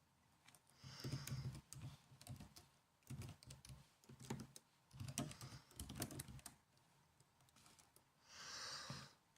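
Typing on a laptop keyboard: soft key clicks in quick bursts with short pauses, stopping about two-thirds of the way through. A brief soft rush of noise follows near the end.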